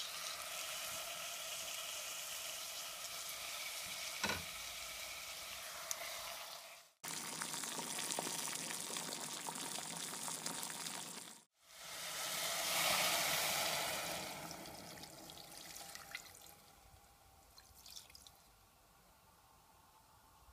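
Diced onions and chicken breasts sizzling in oil in a stainless steel pot, with a short knock about four seconds in. After a few seconds of plain steady hiss, water is poured into the pot in a rising and then fading rush, leaving a quieter bubbling.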